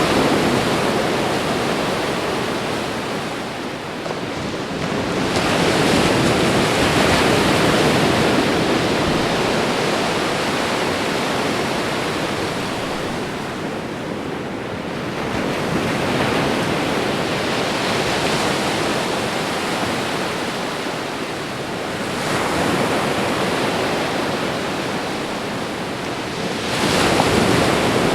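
Ocean surf: a continuous rush of waves breaking and washing up the shore, swelling with each new wave every five to ten seconds and easing back between them.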